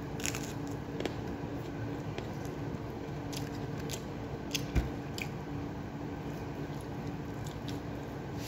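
Close-up eating sounds: a person chewing and biting food, with wet squishing and several sharp crisp crunches, over a steady low hum. A single dull knock is heard a little past the middle.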